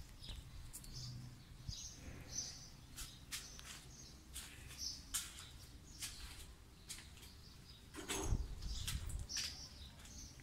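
Small birds chirping in short, repeated calls, mixed with scattered sharp clicks. A louder low rumble comes in about eight seconds in.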